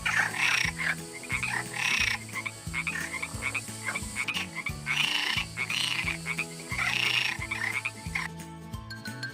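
Frog croaking in a run of rasping calls, with about five louder bouts, over a soft background tune.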